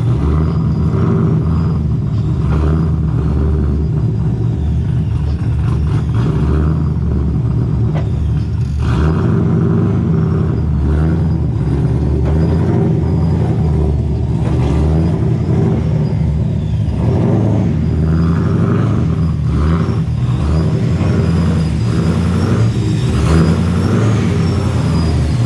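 Engine of a supercharged Nissan 240SX running under load, the pitch changing in steps about nine and seventeen seconds in.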